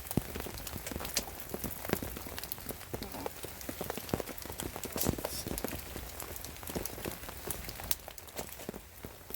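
Rain falling, with many irregular sharp drip ticks on a nearby surface.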